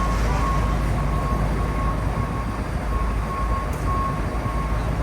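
Steady low vehicle rumble with a repeated high beep, about one and a half beeps a second.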